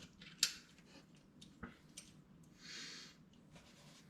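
Faint handling noise of exhaust parts being fitted by hand: a sharp click about half a second in, a smaller knock after about a second and a half, and a short hiss near the middle.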